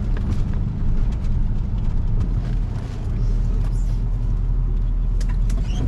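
A truck driving over a rough dirt trail, its engine and road noise heard as a steady low hum, with a few faint rattles near the end.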